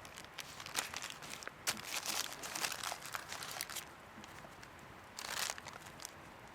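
Irregular crisp crunching and rustling, dense for a few seconds and then one more short burst near the end.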